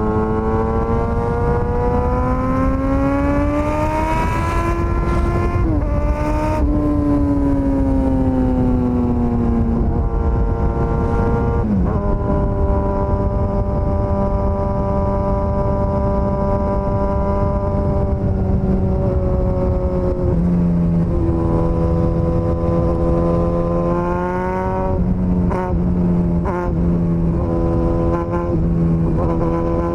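Suzuki GSX-S1000's inline-four engine under way: the revs climb for the first few seconds, drop with a gear change, fall away, then hold steady for several seconds with a couple of lower steps before rising again near the end. A steady rush runs underneath.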